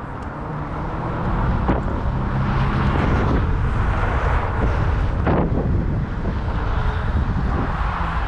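Wind rushing over the microphone and rolling road noise while riding an electric fat-tire bike; it grows louder over the first couple of seconds, then holds steady.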